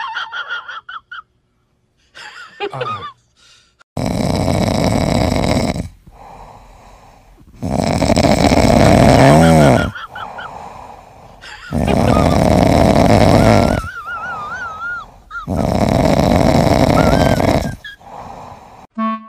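A ginger kitten snoring in its sleep. There are four long, loud snoring breaths of about two seconds each, starting about four seconds in, with a thin whistling wheeze riding on them. A few short squeaky sounds come before them.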